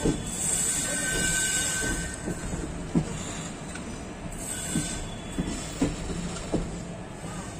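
Indian Railways passenger train coaches rolling on the track, heard from aboard: steady rolling noise with single wheel knocks over rail joints at uneven intervals and a faint high wheel squeal.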